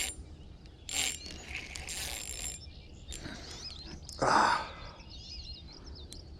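Fishing reel being cranked in short spells, a hooked fish snagged in weeds on the line, followed by birds chirping.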